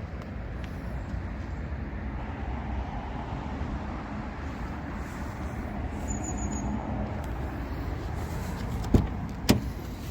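Steady low rumble of car and road noise, with two sharp clicks near the end.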